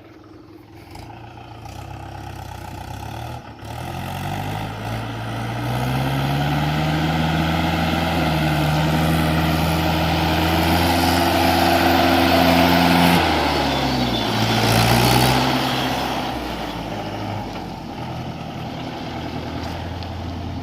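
Mahindra 575 DI tractor's four-cylinder diesel engine revving up and working hard, its pitch climbing over the first several seconds and holding high. The revs drop briefly about two-thirds through, pick up again, then ease off to a lower steady note.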